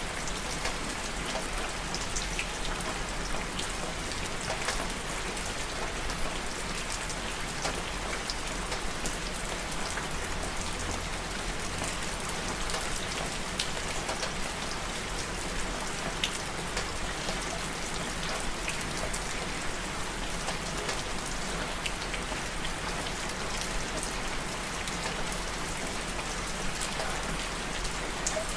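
Steady rainfall, an even hiss of rain with many small distinct drops pattering on a surface.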